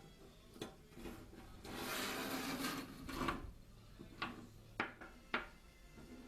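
Handling of small hard objects: a scraping rustle lasting about a second and a half, a couple of seconds in, and several separate sharp clicks around it.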